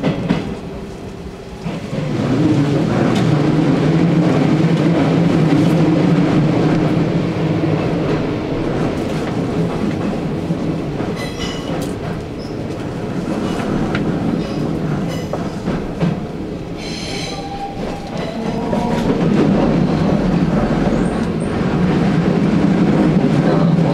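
Hanshin Railway local train running through the underground approach to Umeda, heard from inside the front car: a steady rumble of wheels on rail and traction motors. Brief high wheel squeals come about 11 and 17 seconds in, and the running noise swells again near the end.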